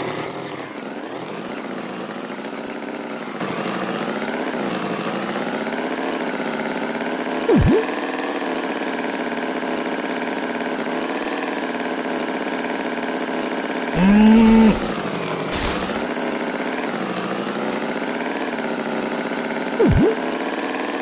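An engine running steadily, its pitch wavering slightly. Three brief louder sounds break in: one about a third of the way through, a longer held tone about two-thirds through, and another near the end.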